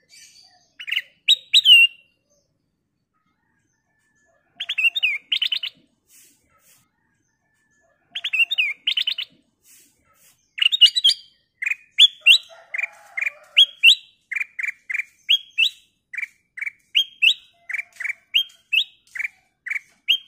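Black-crested bulbul singing: three short bursts of quick, bright whistled notes, then from about ten seconds in a steady run of short repeated notes, about two a second, alternating rising and falling.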